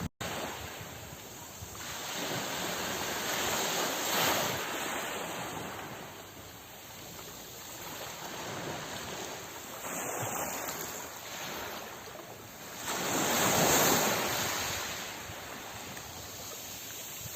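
Ocean waves washing ashore in slow surges, with two louder breakers swelling about four seconds in and again near fourteen seconds. The sound drops out for a split second just after the start.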